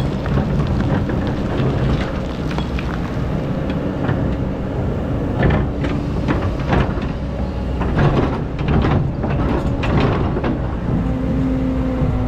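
Excavator's diesel engine running steadily under load, with a run of clanks and scrapes from the bucket digging sand and gravel in the middle.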